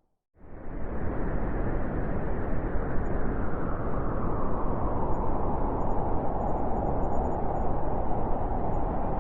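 Blizzard wind: a steady rush of howling wind that cuts in about half a second in, after a brief moment of silence.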